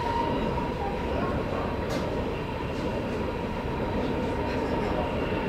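Steady running noise inside a moving passenger train: the rumble of wheels on rail, with a thin steady whine running through it. A faint click comes about two seconds in.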